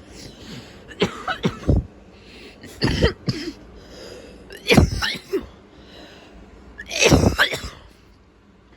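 Husky vocalizing in four short outbursts about two seconds apart, each a quick cluster of sliding-pitch yelps and grumbles.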